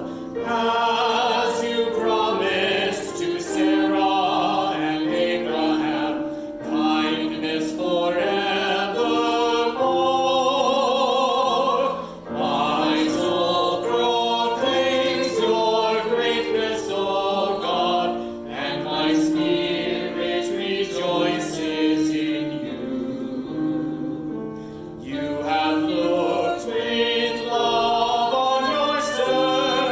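A choir singing a sacred piece, several voices holding long notes with vibrato and moving between notes every second or so.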